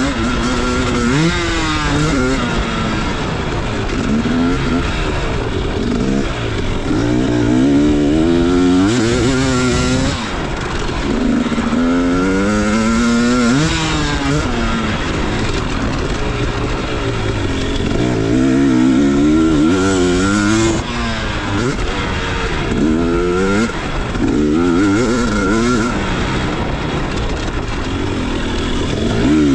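Motocross dirt bike engine revving hard as it is ridden, its pitch climbing and dropping many times as the rider works the throttle and gears.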